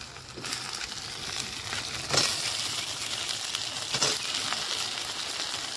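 Cut potato pieces going into hot oil in a wok and sizzling steadily, the sizzle swelling about half a second in. Two sharp knocks, about two and four seconds in, stand out above the sizzle.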